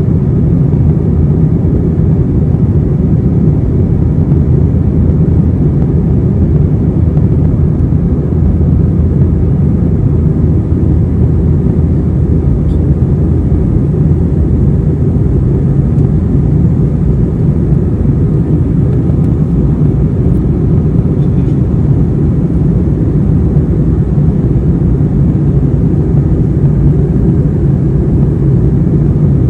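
Cabin noise inside an Airbus A321 airliner: a loud, steady low rumble of jet engines and airflow.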